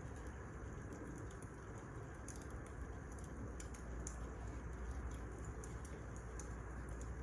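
Wood fire crackling: irregular small pops and snaps over a steady low rumble of burning logs.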